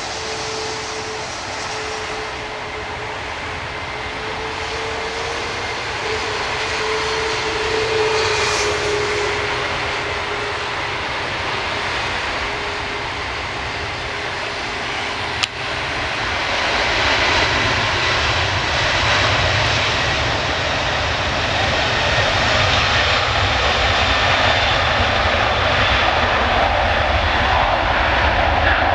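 Airbus A330 jet engines at takeoff power during the takeoff roll: a steady roar with a whine that slowly falls in pitch over the first half, growing louder about halfway through. A brief sharp click about halfway.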